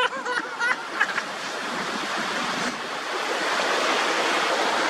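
Sea waves washing onto the shore, a steady rushing hiss.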